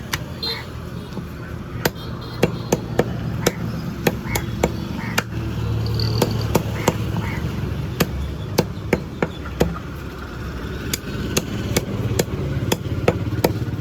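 Cleaver chopping chicken: a long run of sharp, irregular chops, often two or three in quick succession, over a low steady hum.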